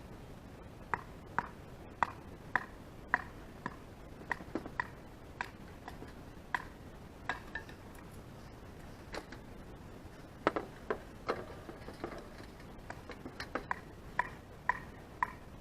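A series of light clicks and clinks of small hard objects being handled and set down, about twenty in an irregular rhythm, bunching closer together in the last few seconds.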